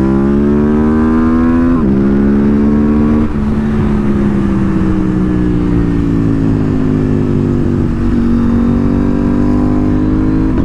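KTM 890's parallel-twin engine under way on a ride: it pulls up in pitch, drops sharply at an upshift about two seconds in, eases off with the pitch sagging slowly, then climbs again near the end before another shift.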